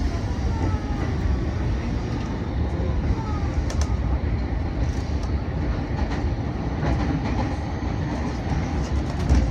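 Keihin-Tohoku Line electric commuter train running, heard from inside the car: a steady low rumble with scattered sharp clicks from the wheels and track.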